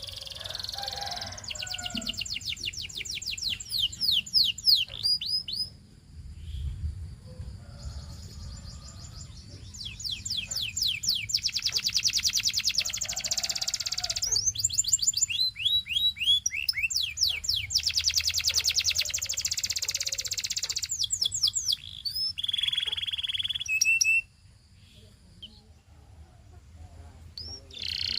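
Male canary singing: long phrases of very fast trills of repeated notes and quick falling whistles, broken by short pauses, then a quieter stretch near the end.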